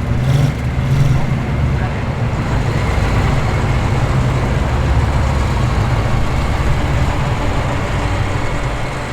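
Performance car engines with lumpy aftermarket cams idling and rumbling at low speed, a steady, loud deep rumble as the cars roll past.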